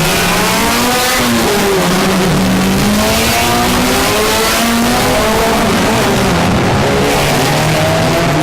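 Race car engines accelerating hard, their pitch climbing again and again as they run up through the gears.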